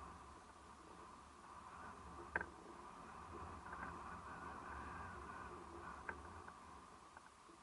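Faint seashore ambience: a low, slowly swelling rumble of surf, with a sharp click about two and a half seconds in.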